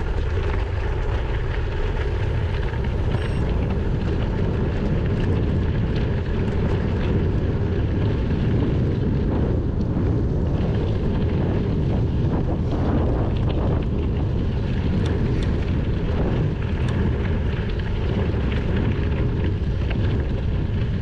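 Steady wind rumble on a GoPro Hero 9's microphone from riding a gravel bike at speed, with tyre rolling noise underneath.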